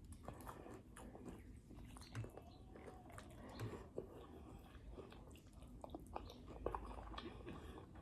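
Faint chewing of food close to the microphone, with scattered small mouth clicks and smacks.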